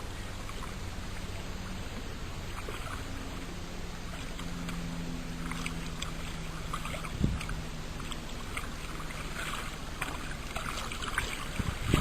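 Kayak paddle strokes on open water: splashing and dripping that grows busier towards the end, over a faint low hum. A single knock about seven seconds in.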